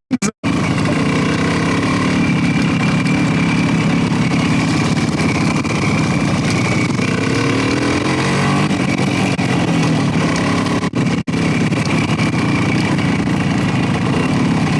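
Motorcycle engine running under way, steady with its pitch shifting up and down for a few seconds in the middle as the rider works the throttle. The sound drops out for an instant just after the start and about 11 seconds in.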